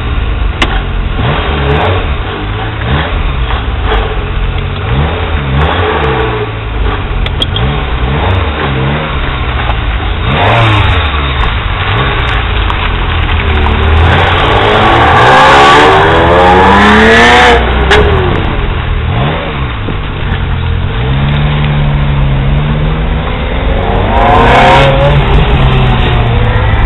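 Ferrari F355 V8 engines revving and accelerating: a string of short revs rising and falling every second or two, then a long rev climbing high that cuts off sharply, and another rev rising near the end.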